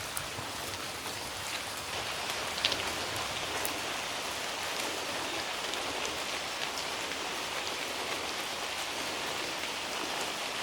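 Steady rain falling on rainforest foliage, with scattered drips ticking and one sharper drop about two and a half seconds in.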